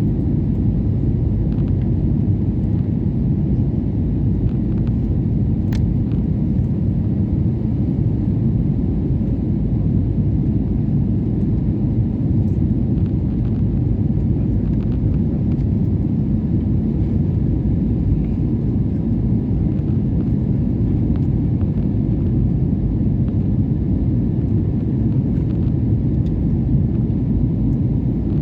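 Airliner taking off: the jet engines and rushing air make a steady low rumble with no change in level.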